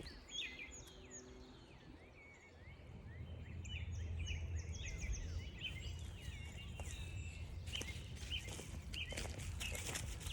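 Songbirds calling and singing: many short chirps and slurred notes, with a quick rapid series of high notes near the middle, over a steady low rumble. Sharp scuffing clicks of footsteps on the trail come in the later part.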